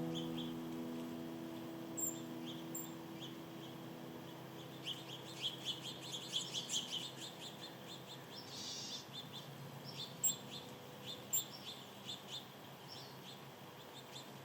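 Small birds chirping and twittering in short high notes, with a quick run of chirps about five to seven seconds in and scattered calls after. A sustained piano chord fades out over the first few seconds.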